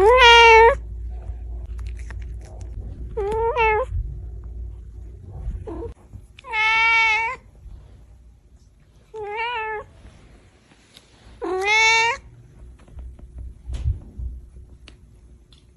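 A domestic cat meowing five times, a few seconds apart; each meow is a clear pitched call, and the third, about seven seconds in, is the longest at about a second.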